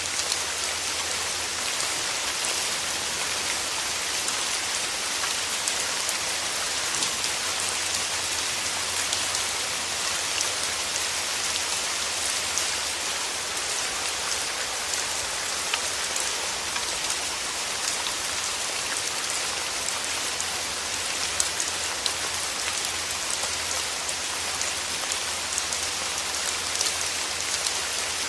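Steady rain falling on a surface, an even hiss with many small raindrop taps scattered through it.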